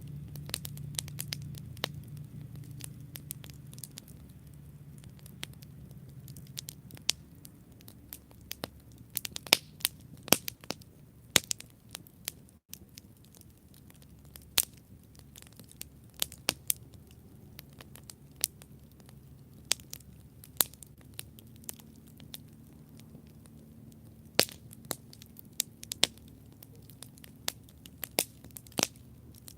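Campfire crackling: irregular sharp pops and snaps at an uneven pace, over a low steady rumble of the burning fire that is stronger in the first several seconds.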